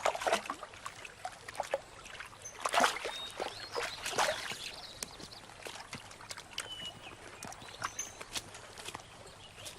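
River otters splashing and stirring water at the water's edge as they tussle over a fish, with irregular splashes and trickling; the biggest splashes come about three and four seconds in. A few short, high chirps sound over it.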